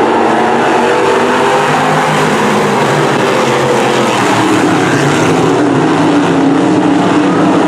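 Several dirt-track Sportsman race cars' V8 engines running together on the track, a loud, continuous engine din with overlapping pitches that drift up and down as the cars throttle.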